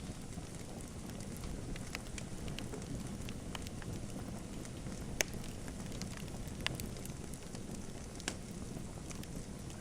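Wood fire in a fireplace crackling: a steady low rustle with scattered sharp pops, the loudest about five, six and a half and eight seconds in.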